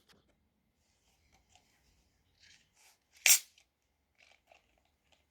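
A carbonated soda, Mountain Dew Purple Thunder, being opened: one short, sharp hiss of escaping gas about three seconds in, with faint small clicks and crackles around it.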